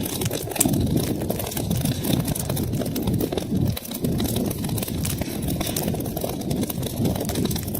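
Wood fire crackling, with many small sharp pops over a steady low rush of the flames.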